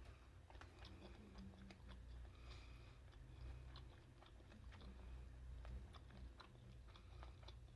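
Quiet, close-up chewing of seafood: many faint, irregular wet clicks and smacks of a mouth eating.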